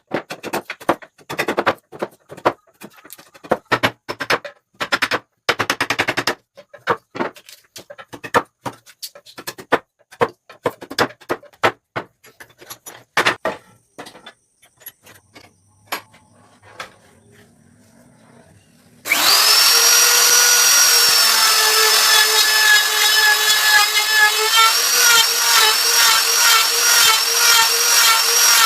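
A quick, irregular run of sharp knocks and clicks on wood that thins out after about fourteen seconds. About nineteen seconds in, an electric power tool's motor starts suddenly and runs with a steady, high whine.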